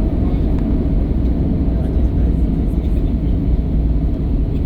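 Steady low rumble of an Airbus A321 heard from inside the passenger cabin.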